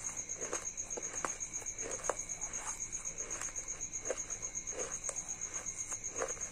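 Close-miked mouth chewing of broken clay pieces, crunching and grinding about once or twice a second. Behind it runs a steady, rapid, high pulsing chirp.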